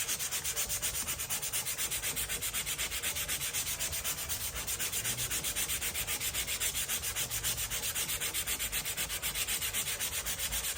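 120-grit sandpaper rubbed by hand over a paint-stripped timber door in rapid, even back-and-forth strokes, a steady scratchy rasp.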